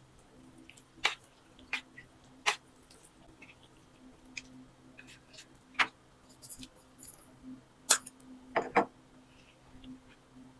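Eating noises: irregular sharp clicks and taps of utensils on a bowl, with softer small noises between them, over a low steady hum.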